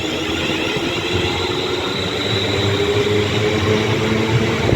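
London Northwestern Railway Class 350 Desiro electric multiple unit moving along the platform: wheels on the rails with a steady tone from its running gear, growing slowly louder.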